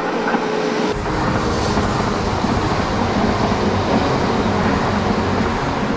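E3-series Yamagata Shinkansen train running along the line, a steady rumble of wheels on rail and running gear that starts abruptly about a second in.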